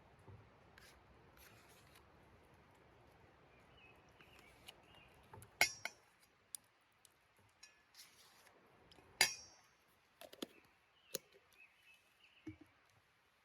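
Scattered sharp clicks and clinks of cooking utensils and dishes being handled, with two louder clinks about five and a half and nine seconds in.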